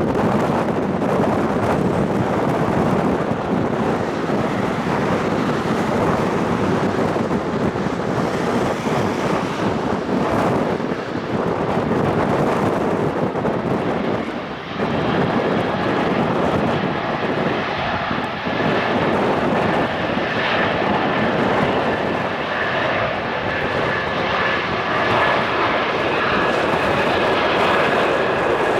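Airbus A220 jet taking off, its Pratt & Whitney PW1500G geared turbofans at takeoff thrust: a loud, steady rush, with a whining tone coming in about halfway through.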